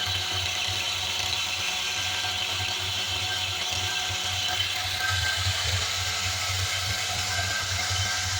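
Homemade belt sander driven by a recycled washing-machine motor, running steadily: a constant low motor hum under an even whirring rush of belt noise.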